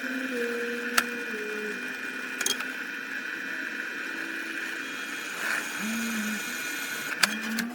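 A small motor-driven shop tool running with a steady high whine, while a lower motor tone comes and goes in short runs, rising and falling, with a few sharp clicks.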